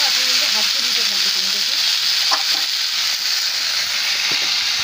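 Food frying in hot oil in a kadai over a lowered gas flame: a steady sizzle, with a spatula stirring it now and then.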